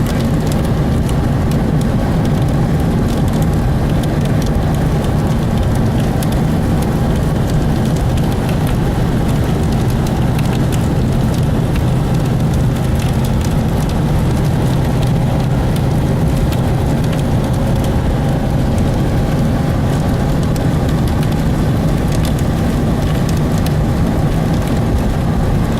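Heavy rain pouring down: a loud, steady hiss with a low rumble underneath and the patter of drops.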